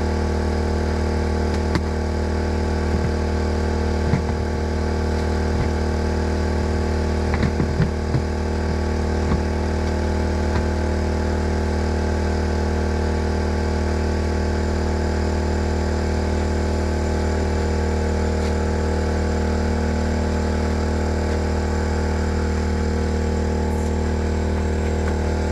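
Portable generator running steadily, a constant even hum, with a few light knocks and clicks of handling over it in the first ten seconds or so.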